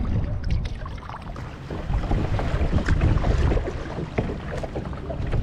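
Wind buffeting the microphone with a low rumble that swells in the middle, over small splashes and drips of water around a kayak.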